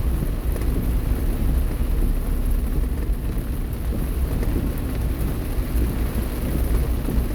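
Steady heavy rain with the low rumble of a car driving slowly over a wet road.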